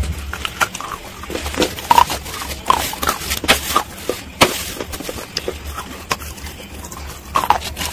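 Close-up crunching and chewing of hard, brittle pieces bitten off with the teeth: irregular sharp cracks and crackles, with one loud crack about halfway through.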